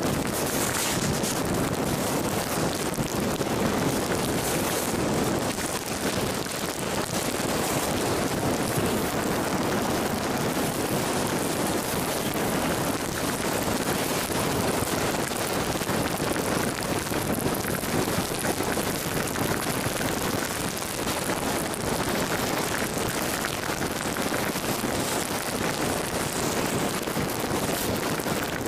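Steady rain and wet-road noise from a vehicle driving through a thunderstorm downpour: an even rushing hiss with no breaks.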